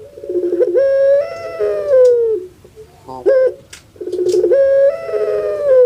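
Puter pelung (domestic ringneck dove, Streptopelia risoria) giving its long call twice. Each call starts as a rolling burr, swells into a long held coo and falls away at the end, with a short sharp note between the two calls.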